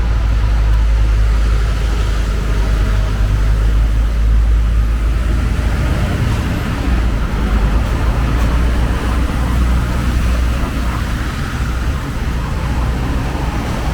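City street traffic: a steady low rumble of passing vehicles under a constant hiss.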